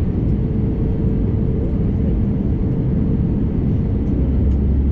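Airbus A321neo cabin noise: a steady, even low rumble from the engines and airframe, with a faint steady hum running through it.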